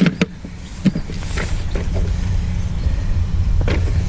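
A few sharp clattering knocks, then a vehicle engine running with a steady low hum that grows louder over the next second and holds.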